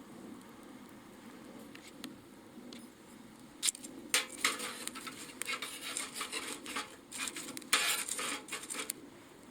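Metal cookware being handled: a run of quick clinks and rattles starting about three and a half seconds in, over a low steady background.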